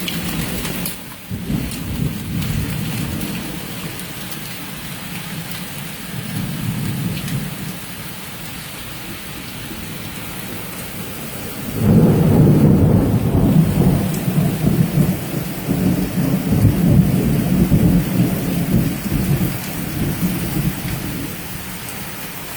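Hailstorm: hail and rain falling steadily, with low rumbles of thunder and a louder, long roll of thunder starting about halfway through.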